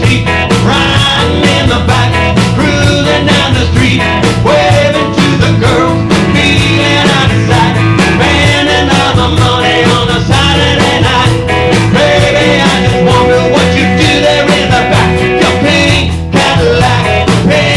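Live rock and roll band playing, with electric guitar, a steady drum beat and singing, and a brief break in the music near the end.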